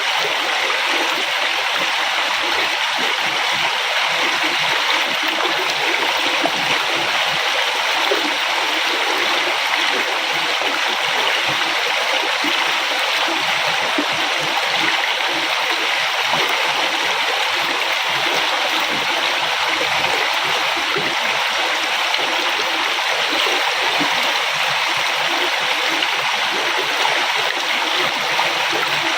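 River water flowing steadily over rocks, an even rushing with light gurgling and splashing.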